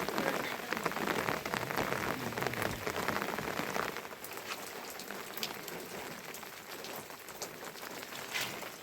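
Rain falling and dripping onto surfaces: a dense patter of drops that thins after about four seconds to lighter, scattered drips.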